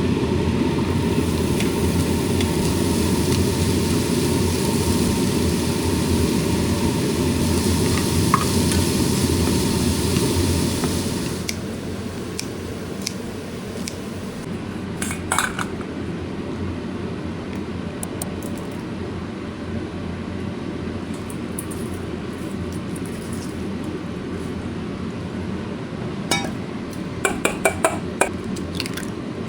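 Dishes and utensils clinking against each other over a steady background rush. The background drops in level about eleven seconds in. Later come a few sharp clinks, with a quick cluster of them near the end.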